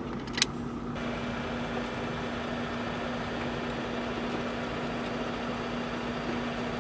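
A heavy rotator tow truck's engine running steadily with a constant hum while it drives the hydraulic boom as it lifts. There is one sharp click about half a second in.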